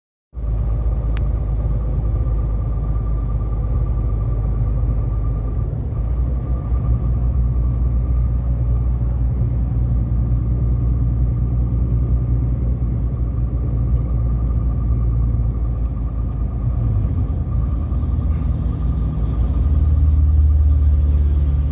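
Heavy truck driving at highway speed: a steady low engine-and-road rumble with a faint steady whine above it, growing deeper and a little louder near the end.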